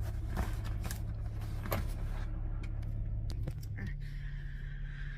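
A semi-truck's diesel engine idling, a steady low hum whose note shifts slightly higher about four seconds in, with a few light clicks over it.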